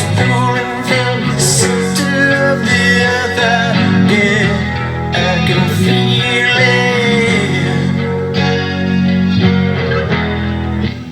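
Electric guitar played through a Zoom G5n multi-effects processor, playing along with a full band recording that includes singing.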